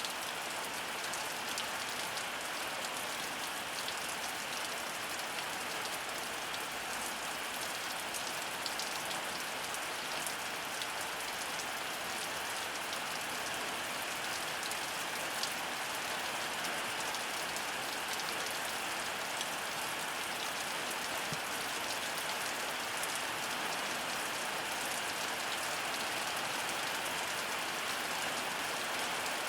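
Heavy rain falling steadily, a dense even hiss with many small drop ticks on hard surfaces.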